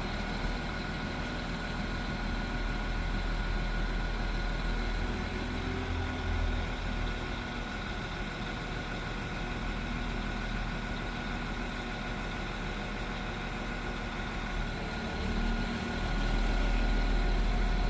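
Northern Class 195 diesel multiple unit's underfloor diesel engines idling at the platform, with a steady high whine over the low hum. About sixteen seconds in the engine note rises and gets louder as the train powers up to depart.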